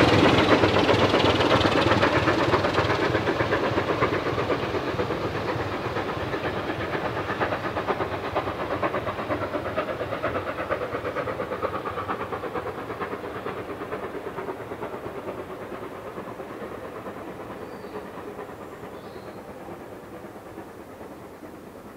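A heritage train hauled by a Class 25 diesel locomotive and a steam locomotive, moving away and fading steadily into the distance: engine noise and a fine, regular clicking of wheels on the rails, dying away.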